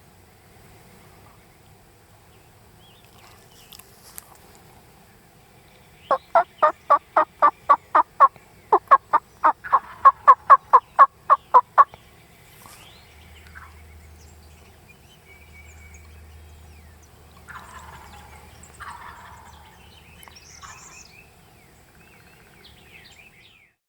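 Wild turkey calling: two loud series of evenly spaced yelps, about four a second, over some six seconds, with a short break between them. Fainter calls follow near the end.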